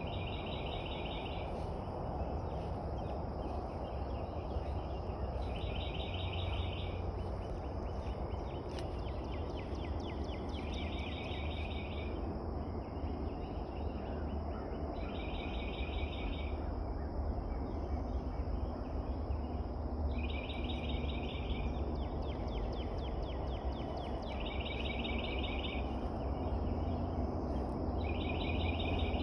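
A songbird repeating a short, rapid trill of about a second and a half, seven times at intervals of four to five seconds, over a steady high insect drone and a low outdoor rumble.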